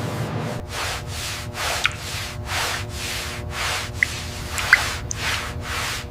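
Hand sanding in rhythmic back-and-forth strokes, about three a second, with a few small clicks.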